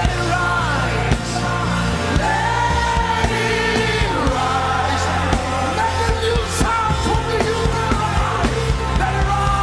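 Live gospel worship music: sung voices holding and bending long notes over a steady band backing with bass and drums.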